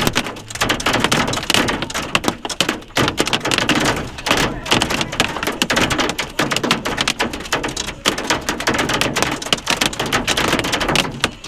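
Hail and heavy rain pelting a vehicle, a dense, loud clatter of many hard impacts.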